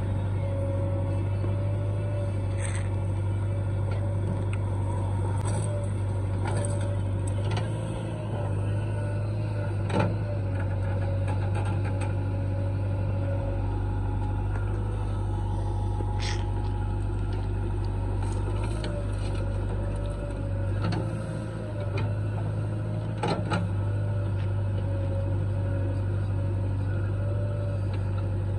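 Heavy diesel machinery engine running steadily with a low hum, with a few sharp knocks or clanks, the clearest about ten seconds in and again around sixteen and twenty-three seconds.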